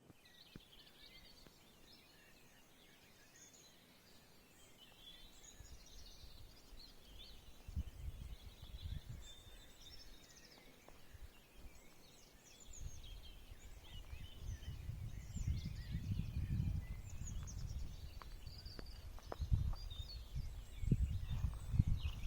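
Several small birds chirping and trilling in a forest, many short high calls overlapping throughout. Low rumbling gusts come in about eight seconds in and grow louder through the second half.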